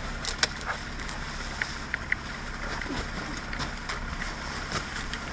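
A few scattered sharp clicks and knocks from a ratchet strap and the Christmas tree being worked onto the roof of a Jeep, over a steady low hum.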